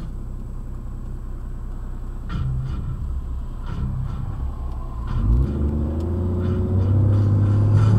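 Car engine heard from inside the cabin: a low idling rumble, then from about five seconds in the engine note climbs steadily and grows louder as the car accelerates.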